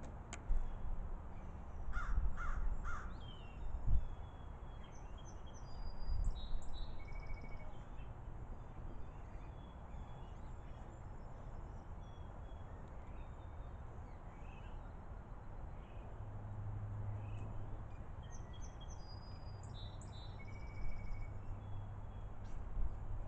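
A crow caws three times in quick succession a couple of seconds in, over scattered high chirps and trills from small birds and a low steady rumble.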